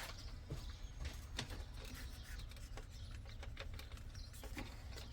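A cloth wiping plastic steering-wheel control panels, a soft rubbing with scattered light taps and clicks as the parts are handled.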